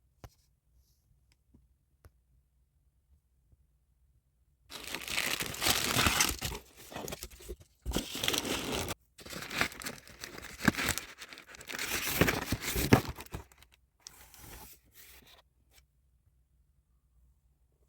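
Packaging being torn open and crinkled by hand. Irregular rustling and ripping goes on in bursts with short pauses for about ten seconds, starting several seconds in.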